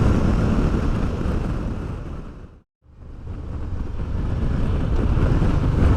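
Wind buffeting the helmet microphone of a moving motorcycle, with low road and engine rumble underneath. It fades down to silence about two and a half seconds in and fades back up, an edit fade between clips.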